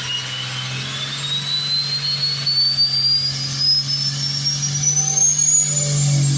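A steady low mechanical hum with a thin, high whistle that climbs slowly and steadily in pitch throughout.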